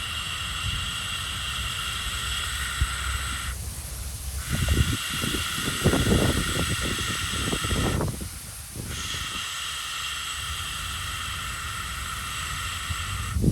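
Wind rumbling on the microphone, gusting harder through the middle, under a high hissing buzz that comes in three stretches of about four seconds with short breaks between them.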